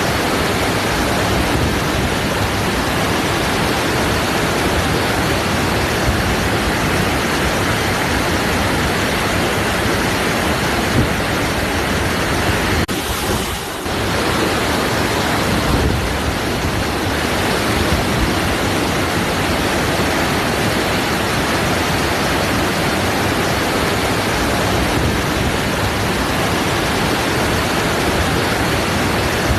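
Waterfall: a steady rush of falling water, with a brief dip in level about halfway through.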